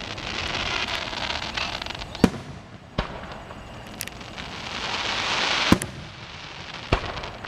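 Aerial fireworks shells bursting: about five sharp bangs, the loudest a little after two seconds in and near six seconds, with a hissing crackle swelling up between them.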